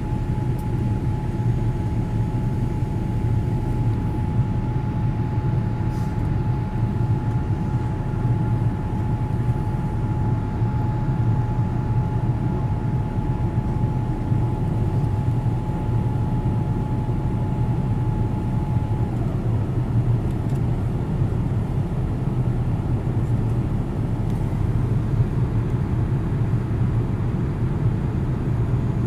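Boeing 787 Dreamliner jet noise under takeoff power: a loud, steady low rumble with a thin steady whine that slides lower and fades about two-thirds of the way through.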